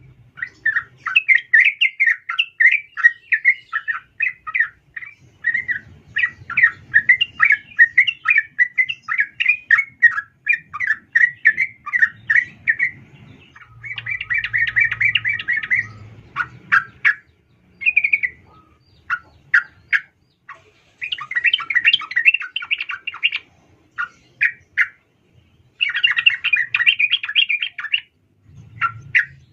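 Female sooty-headed bulbul (trucukan) calling: long runs of rapid chattering chirps, broken near the middle by a few sharp separate notes, then more chattering phrases with short pauses between them.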